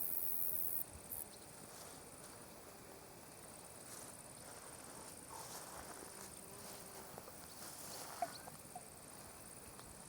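Meadow insects, grasshoppers or crickets, chirring in a steady high-pitched drone. A louder, higher hiss of the chorus cuts off abruptly about a second in, leaving a fainter steady trill with a few faint short chirps over it.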